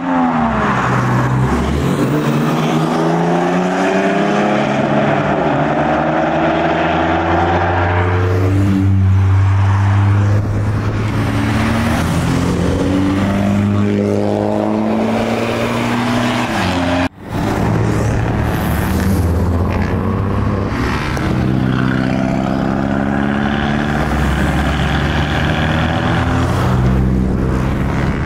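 Modified cars' engines and exhausts accelerating away one after another, the revs repeatedly rising and dropping as they pull off and shift. The sound cuts out sharply for a moment about 17 seconds in.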